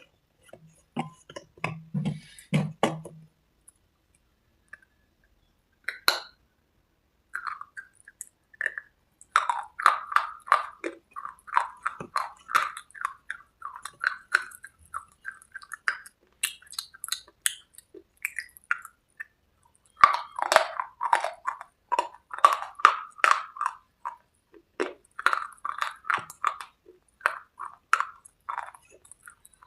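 A person crunching and chewing hard, chalky cubes and red slate paste in the mouth: a short run of crunches, a pause of a few seconds broken by one sharp crack, then a long dense run of crisp bites and chews.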